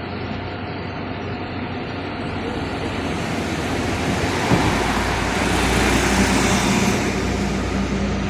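A heavy road vehicle passes close by. Its engine and tyre noise grows louder from about three seconds in, peaks with a low drone and a steady hum a little after halfway, and then starts to fade.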